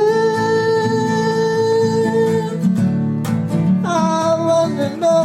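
Acoustic guitar strummed steadily under a singing voice. The voice holds one long note for about two and a half seconds, then starts a new line near the end.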